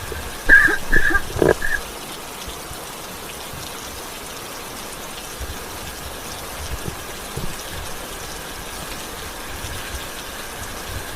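Steady rain falling, with a cluster of short louder knocks and squeaks in the first two seconds.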